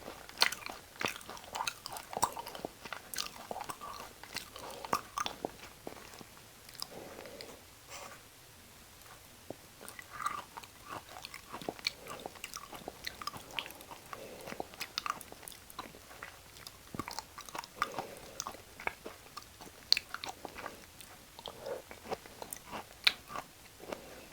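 Close-up chewing and biting of raw beef offal: irregular wet smacks and crunchy clicks of mouth sounds, easing off for a few seconds near the middle.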